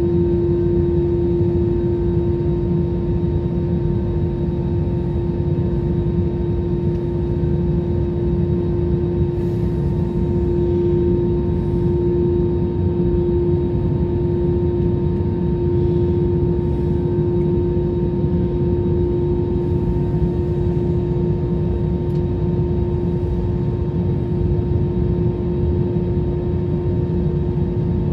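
Jet airliner engines running steadily, heard as a constant low rumble with a steady hum-like tone over it and no change in pitch or level.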